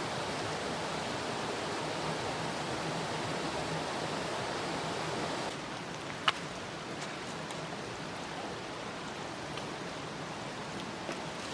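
Steady rushing noise that drops to a quieter level about halfway through, with one sharp click shortly after the drop.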